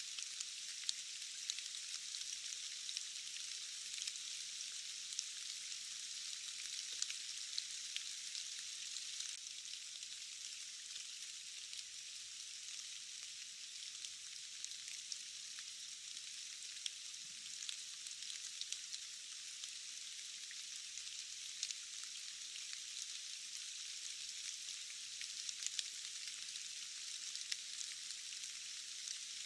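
Steady rain falling, an even hiss with many small sharp ticks of drops scattered through it and no low rumble.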